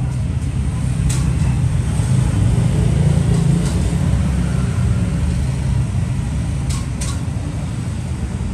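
Steady low rumble of road traffic, with a few short sharp clicks: one about a second in and two close together near seven seconds.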